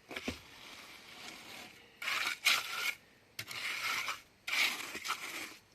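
Trowel scraping and smoothing wet cement mortar, in three long strokes of about a second each, after fainter scraping.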